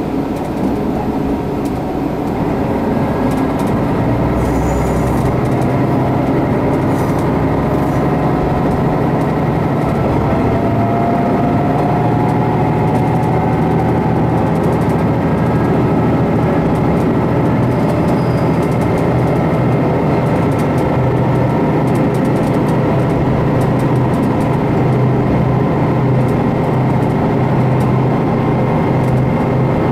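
Sanriku Railway diesel railcar running along the line, heard from inside the cabin: a steady engine drone under the rumble of wheels on the rails. The engine note grows louder about four seconds in, then holds steady.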